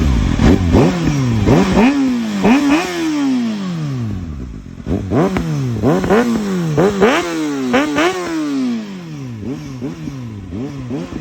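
Kawasaki Ninja ZX-6R inline-four revved through an Akrapovic exhaust in repeated quick throttle blips: each one rises sharply and falls away. The blips come in two bursts with a short lull between them, and a few smaller blips follow near the end.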